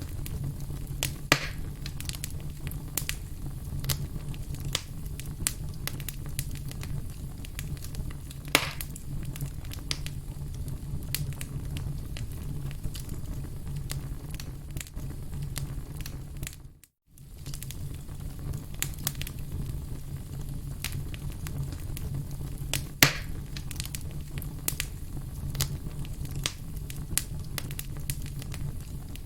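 Wood campfire crackling and popping: many small sharp crackles over a steady low rumble of flames, with a few louder pops. The sound fades out to silence for a moment about halfway through, then returns.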